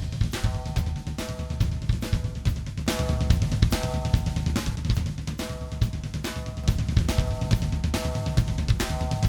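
Recorded drum kit track playing back a steady beat with kick, snare and cymbals, alongside a repeating pitched part.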